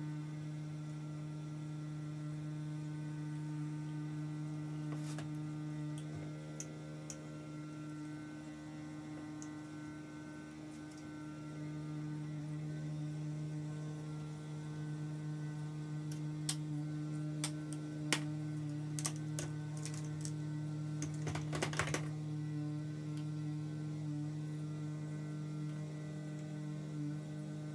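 A steady electrical hum throughout, with scattered light clicks and a quick run of clinks about three-quarters of the way through, from hand work on stripped bicycle parts.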